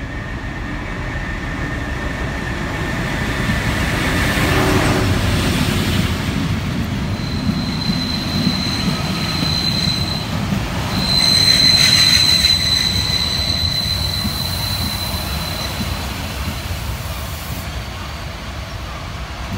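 Historic passenger train running past at a station: a steady rumble that swells as the locomotive goes by about five seconds in, then the vintage coaches rolling past. Their wheels give a high steady squeal twice, in the middle of the pass.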